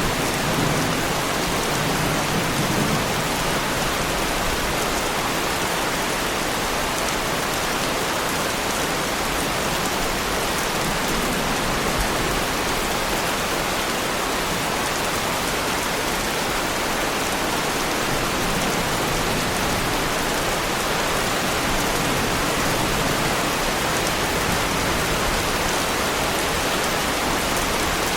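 Heavy rain falling steadily on a sports car's bodywork, a dense, even hiss.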